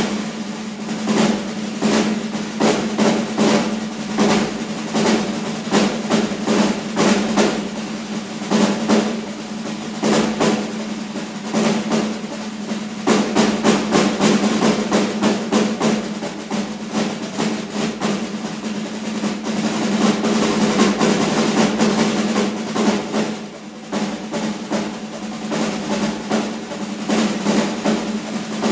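Snare drums played as a duet: fast, continuous stick strokes and drum rolls, with the playing briefly softer about two-thirds of the way through.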